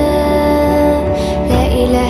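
Background music: an Arabic devotional chant (nasheed) holding one long sung note over a steady low drone, the note wavering slightly near the end.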